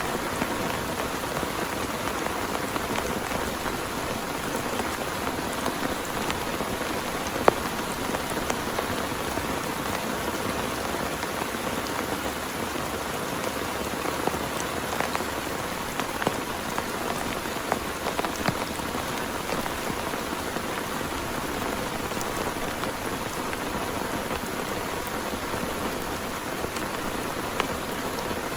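Steady heavy rain falling on a surface, with many sharp individual drop hits ticking through it and one louder tick about seven seconds in.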